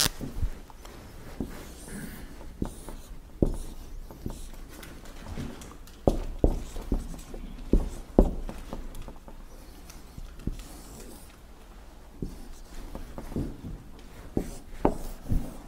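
Dry-erase marker drawing on a whiteboard: irregular taps and knocks of the marker against the board, with faint strokes between them.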